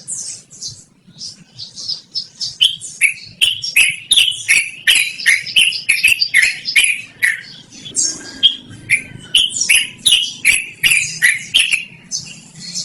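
Yellow-vented bulbul (trucukan) singing a long, loud, rapid run of chattering phrases at about three notes a second. The run starts about two and a half seconds in, after softer high twittering, and is broken briefly once about two thirds of the way through.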